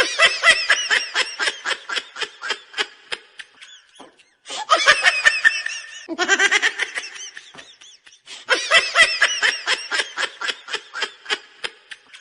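High-pitched cartoon-style laughing sound effect, looped: the same laugh plays three times, each a run of quick giggling pulses that trails off.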